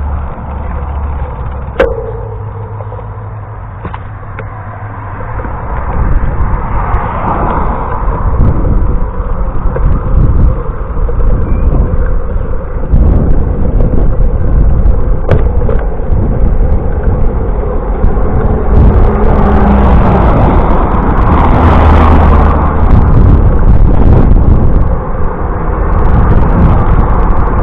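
Loud, uneven rumble of wind and road noise from a moving bicycle ride, with a sharp click about two seconds in and another near the middle.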